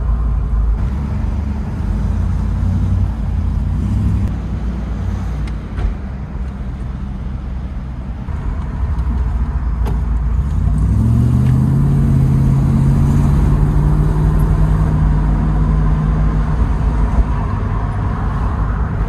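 Triumph Stag's 3.0-litre V8 heard from inside the cabin while driving: a low burble, then about ten seconds in it accelerates, the note rising and then holding steady before easing off a few seconds from the end.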